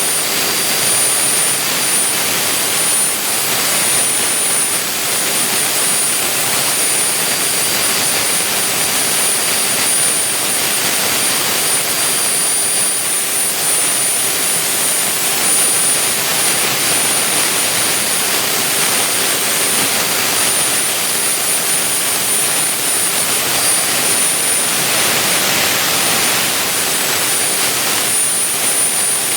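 Vertical three-axis CNC milling machine running steadily while cutting a pumpkin: a loud even hiss with a thin, high, steady whine.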